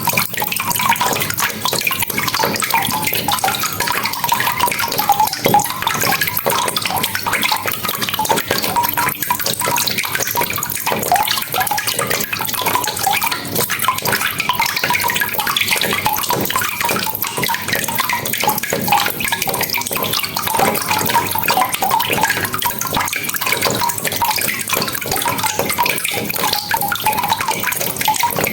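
Steady rain falling, a continuous wash of dense drop impacts and splashes with no let-up.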